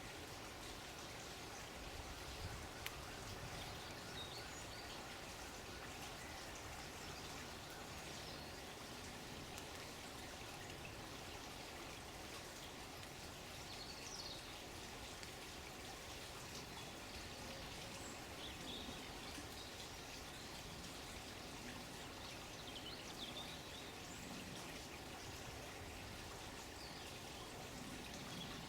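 Faint, steady running water, with a few brief, faint bird chirps now and then.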